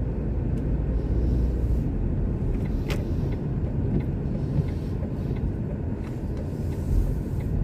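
Car on the move, heard from inside the cabin: steady engine and road rumble, with a single sharp click about three seconds in.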